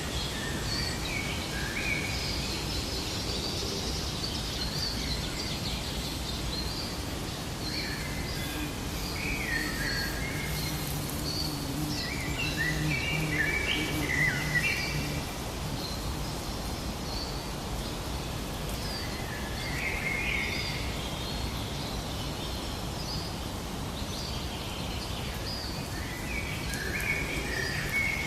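Several birds chirping and calling in short, quick phrases over a steady background of outdoor ambient noise. A faint low hum comes in for a few seconds midway.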